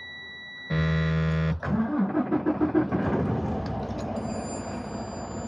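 A heavy truck's dash warning buzzer sounds for about a second, then the diesel engine cranks in rapid pulses, catches about three seconds in and settles into a steady idle.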